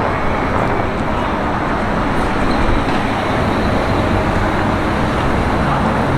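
Steady street traffic noise: cars running by, with no single vehicle standing out.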